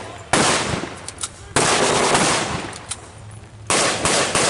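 Blank gunfire in a mock battle: three loud bursts of firing, each starting suddenly and fading out, with a few single sharp cracks in between.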